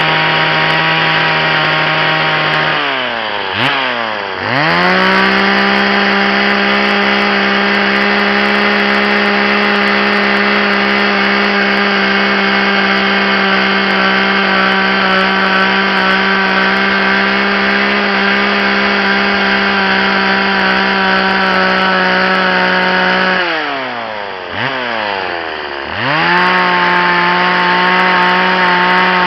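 Two-stroke chainsaw running at high revs while carving into maple wood. Twice the revs fall away and then climb back up a second or two later, once near the start and once near the end.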